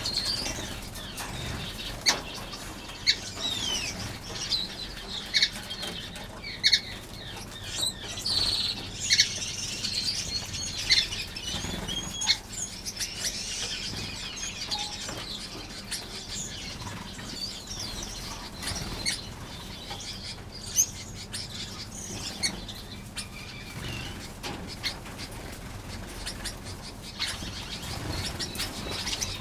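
A flock of aviary finches chirping with many short, high calls, busiest in the first half, with wing flutters and scattered sharp clicks.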